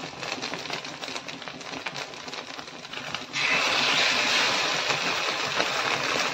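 Omelette frying in oil on a tawa, a steady crackling sizzle. A little over three seconds in it is flipped and the sizzle turns suddenly louder and brighter as the raw side hits the hot oil.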